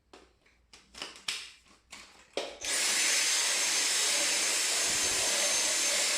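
A few handling clicks and knocks, then about two and a half seconds in a cordless power tool's motor starts and runs steadily with a loud whir.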